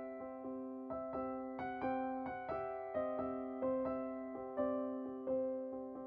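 Background music: a soft electric piano playing evenly spaced notes over a held low tone.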